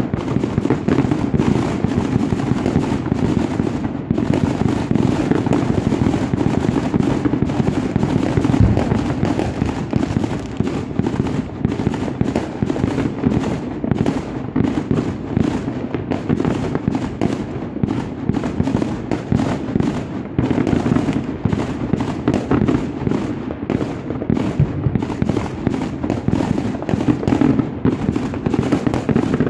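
Many fireworks and firecrackers going off at once across the city, their bangs and crackles packed so close that they merge into one continuous din with no pause.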